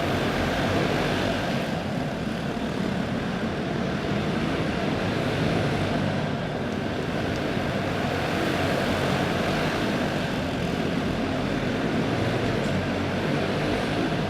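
A pack of racing karts with clone single-cylinder four-stroke OHV engines running flat out at racing speed, their engines blending into one steady drone.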